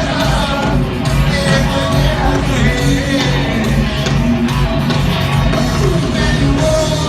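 Live rock band playing loudly in a large hall: distorted electric guitar, bass and drums driving a steady beat, with a voice singing over it.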